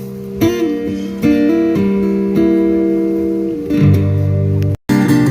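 Music of strummed acoustic guitar chords, cutting out for an instant near the end.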